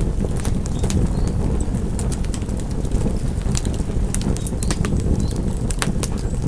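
Wood fire crackling, with a steady low rumble of the flames and frequent sharp pops and snaps, several a second.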